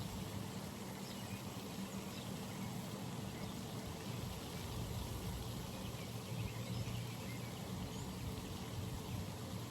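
Outdoor pond ambience: a steady low hum under an even hiss, with faint scattered high chirps.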